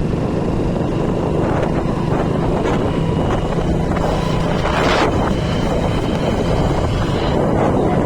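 A vehicle running along a road, its steady engine hum and road rumble mixed with wind buffeting the microphone.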